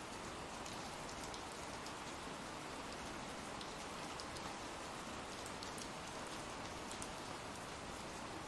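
Steady, even rain from an ambient rain recording, with scattered light drop ticks.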